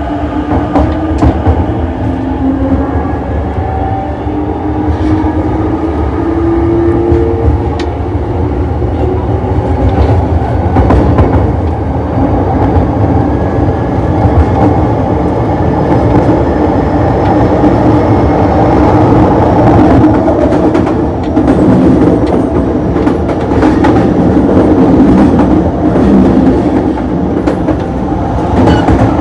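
E233 series electric train heard from inside the gangway between cars: traction motor whine rising in pitch over the first several seconds as the train accelerates, then levelling off. Under it is a steady rumble of wheels and track, with sharp clacks from rail joints.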